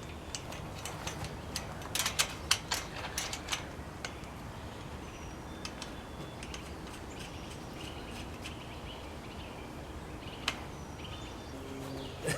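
A quick run of sharp clicks and knocks about two seconds in, with one more near the end, over a faint outdoor background with a few short bird chirps.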